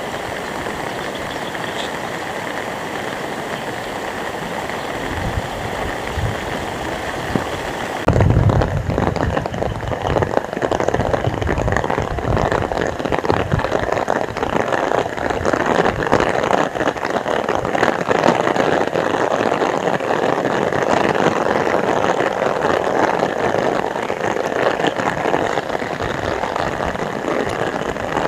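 Heavy rain falling steadily. About eight seconds in it jumps suddenly to a louder, closer downpour spattering on surfaces.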